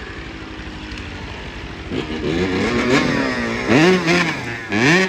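Dirt bike engine revving, its pitch climbing and falling in several throttle blips that begin about two seconds in and grow louder toward the end.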